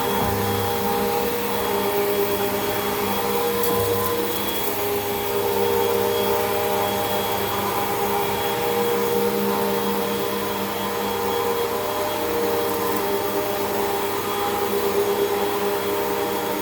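Hoover WindTunnel 2 Rewind bagless upright vacuum cleaner running steadily on the floor, its motor hum drifting slightly in pitch.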